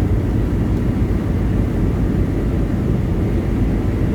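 Semi truck cruising on the highway, heard from inside the cab: a steady low rumble of engine and road noise.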